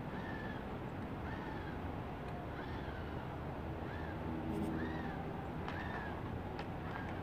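A bird calling over and over, short arched calls about one a second, over a steady low outdoor rumble.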